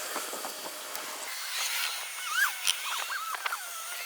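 High, wavering animal calls gliding up and down in pitch, starting about a second and a half in, over a faint hiss.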